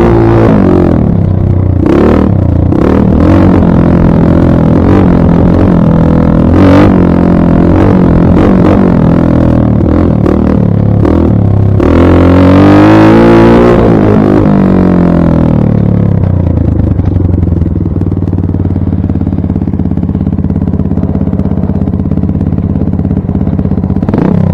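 Dirt bike engine under way, loud, revving up and down again and again with a few sharp knocks. About twelve seconds in it revs high and falls away, then it runs at a steady, lower note.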